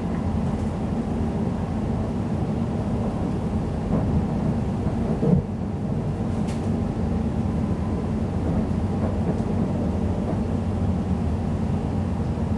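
Inside a Class 345 electric train running at speed: a steady low rumble of wheels on rail, with a short thump about five seconds in.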